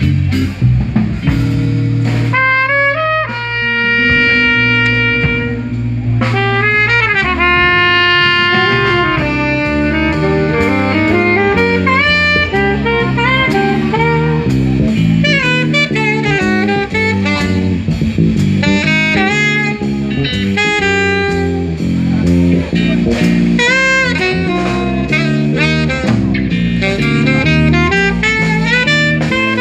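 Live instrumental jazz by a quintet of drums, double bass, guitar, trumpet and saxophone: a horn plays long held notes, then fast running melodic lines over walking bass and drums.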